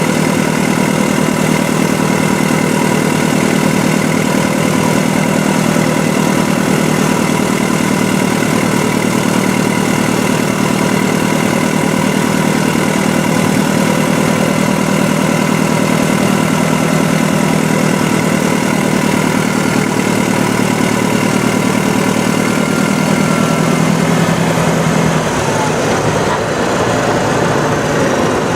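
Caterpillar heavy-equipment diesel engine running steadily. About 25 seconds in its deep note drops away and the sound eases a little.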